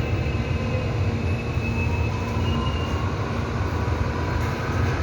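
Seoul Subway Line 4 electric train pulling into a station: a steady heavy rumble of wheels on rail, with faint high whining tones above it.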